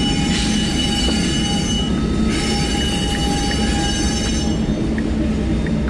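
Loaded coal hopper cars of a freight train rolling past with a steady low rumble and a high, steady wheel squeal. The squeal drops out briefly about two seconds in and again near the end. It is the squeal of wheel flanges as the cars take the diverging curve onto a wye leg.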